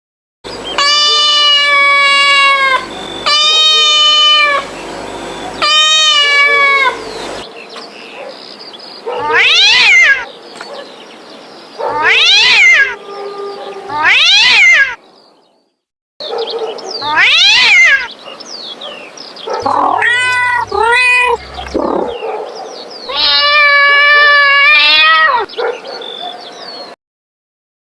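Cats meowing: three long drawn-out meows at the start, then several shorter meows that rise and fall in pitch, a wavering call, and one more long meow near the end.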